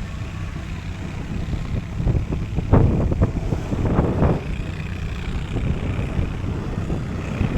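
A tracked side-by-side running as it tows a snow tube over snow, with a steady low rumble. Louder rushing surges come about two to four seconds in, as the tube bounces over the snow.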